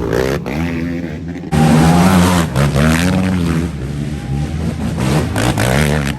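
Dirt bike engine revving hard, its pitch rising and falling over and over as it is throttled and shifted, with an abrupt change in the sound about a second and a half in.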